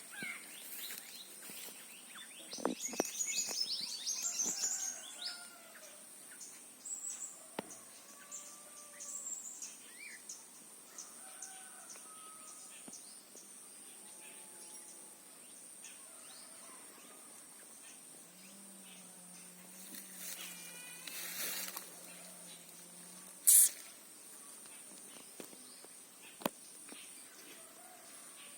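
Small birds chirping and calling in short, repeated notes, busiest near the start, over a steady high-pitched tone. One loud, brief sharp sound comes about two-thirds of the way through.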